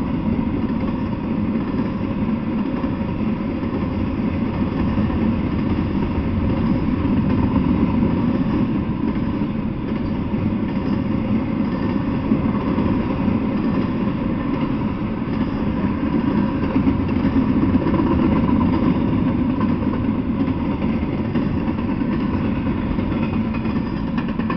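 Intermodal freight train of double-stack well cars passing at close range: a steady loud rumble and clatter of steel wheels on the rails, with a faint steady ringing tone underneath.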